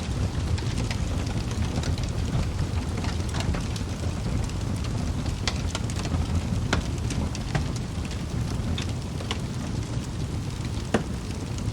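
Wood fire in a fireplace crackling: irregular sharp pops and snaps from the burning logs over a steady low rumble of the flames, with one louder pop near the end.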